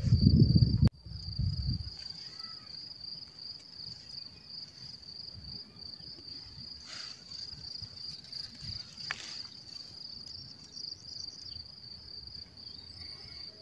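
Insects chirring in a steady, continuous high trill. A louder low rumbling noise fills the first second and cuts off abruptly.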